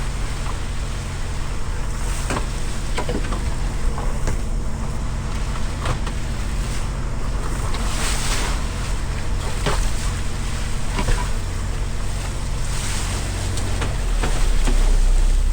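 Boat engine running steadily under a haze of water and wind noise, with scattered light knocks, the engine getting louder near the end.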